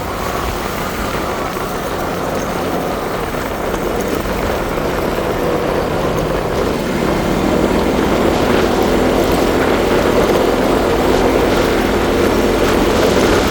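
Motorcycle running along the road, engine and road noise steady and getting gradually louder.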